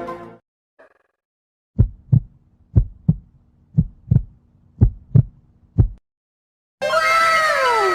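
Heartbeat sound effect: low double thumps, lub-dub, about one beat a second over a faint low hum, stopping after about four beats. Near the end a different effect cuts in, a cascade of falling tones.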